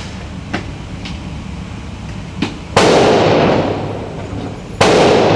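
Two loud handgun shots about two seconds apart, each with a long reverberating tail. Several much fainter, sharper shot reports come in the first half.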